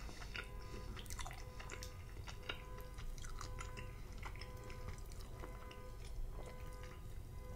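Close-up chewing of slimy cooked spinach, heard as a run of irregular short wet clicks, together with the squish of a fork stirring through the wet greens in a glass bowl.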